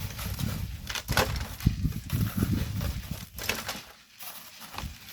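Hand tools crunching and scraping into volcanic sand and gravel in irregular strokes, the sharpest about one and almost two seconds in, over an uneven low rumble.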